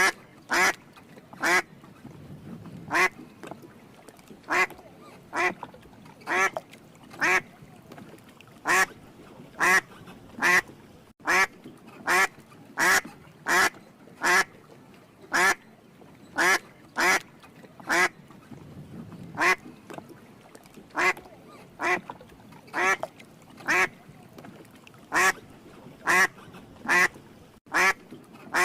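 Domestic duck quacking in a steady series of single loud quacks, a little more than one a second.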